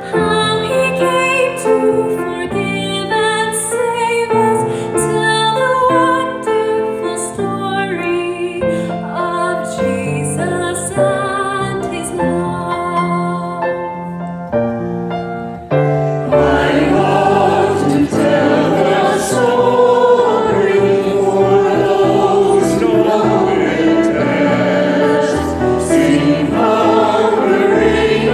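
Choral church music: a choir singing a sacred piece. A little over halfway through, the music grows fuller and louder.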